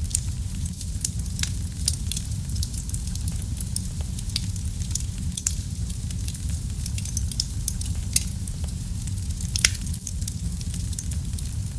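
Fire in a fireplace crackling: a steady low rumble under frequent sharp pops and crackles, with two louder pops about eight seconds in and again just before ten seconds.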